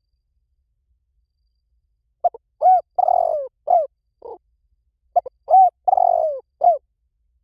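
Spotted dove cooing: two phrases of several short, arched coos with a longer falling note in the middle, coming in about two seconds in after silence. This is a recorded lure call of the kind played to draw spotted doves in.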